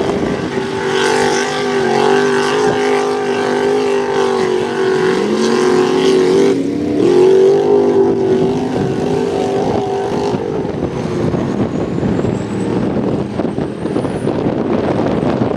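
Mud bog truck's engine running at high revs, its pitch dipping and then climbing again about halfway through. About two-thirds of the way in the engine note drops away, leaving a steady noisy rush with a faint high whine.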